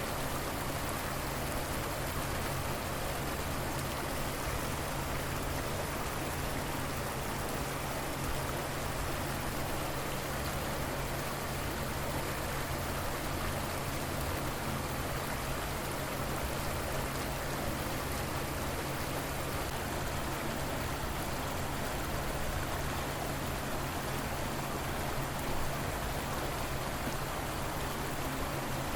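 River water flowing in a steady, even rush with no pauses or distinct events, with a faint steady low hum underneath.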